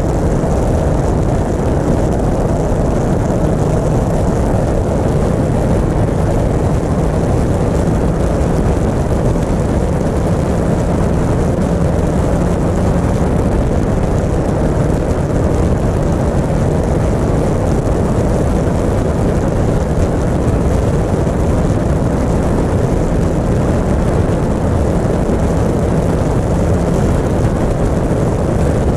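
Motorcycle riding at a steady speed: a steady engine drone under heavy wind rush on an action camera's microphone.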